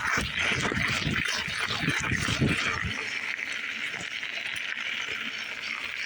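Wind buffeting the hand-held phone's microphone in gusts during a bicycle ride, over a steady hiss of rolling. The gusts ease off about three seconds in.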